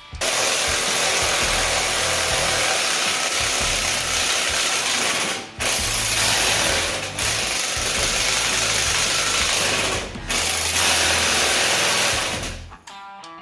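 A power tool running in four long bursts with three brief pauses between them, stopping a little before the end.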